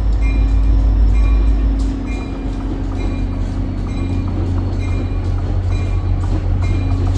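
Shore Line East train pulling slowly into the station: a heavy low engine rumble with a bell ringing steadily about once a second.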